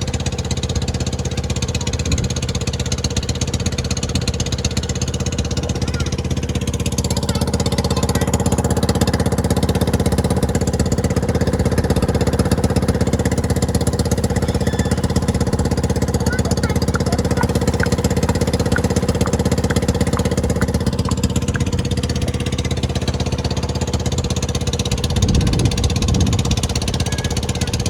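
An engine running steadily, with a rapid, even pulsing.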